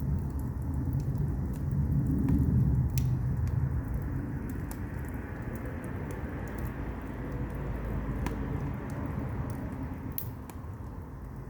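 Firewood burning in an agungi (traditional Korean firebox): a low rumble of the fire, easing after about four seconds, with scattered sharp pops and crackles from the logs.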